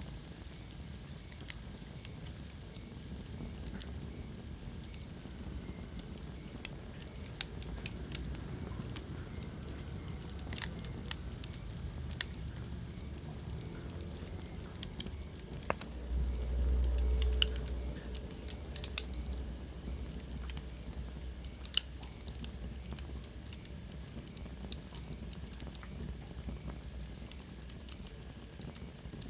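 Wood fire burning in a fireplace: scattered sharp crackles and pops over a low, steady flame noise, which swells briefly a little past halfway.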